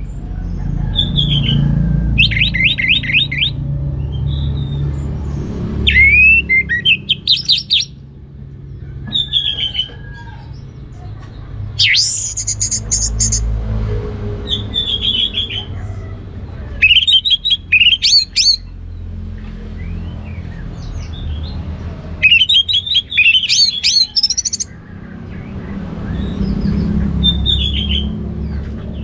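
Orange-headed thrush singing: varied whistled phrases and rapid trills, coming in bursts every couple of seconds with short pauses between, over a steady low rumble.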